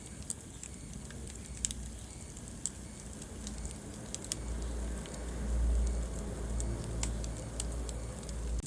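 Wood fire crackling in a fireplace: scattered sharp pops over a low steady rumble, the rumble swelling a little past halfway through.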